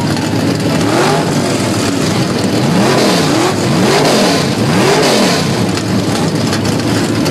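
Hot-rod V8 engine revved up and down several times in quick succession, settling back to a lumpy idle after about five seconds.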